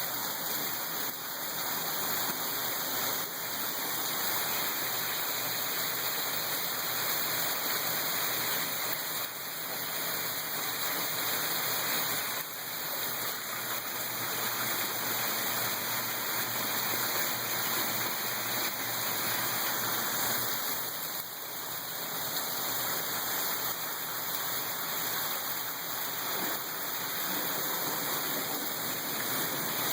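Heavy rain pouring steadily, a dense even hiss of falling water with small swells and dips.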